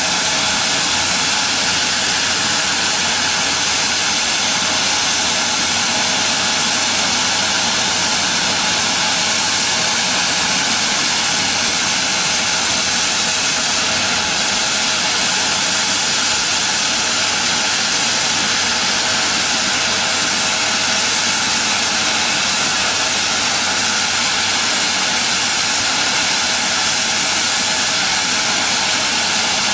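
Aircraft jet engine running steadily, a loud even hiss with a faint steady whine through it.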